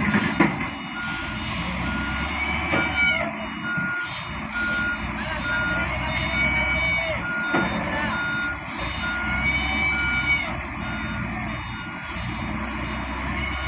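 Reversing alarm on heavy machinery beeping steadily, a little under two beeps a second, over a diesel engine running, with a few short hisses and squeals.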